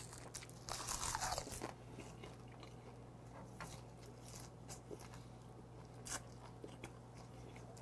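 A person biting into a gwamegi wrap (half-dried saury in laver) about a second in, then chewing it with faint clicks.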